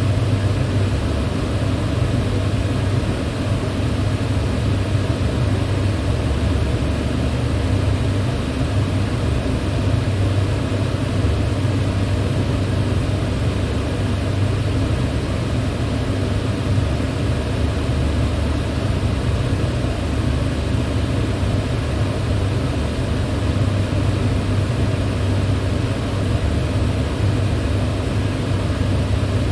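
Electric fan running steadily: a constant rush of moving air over a low motor hum, with no change in speed.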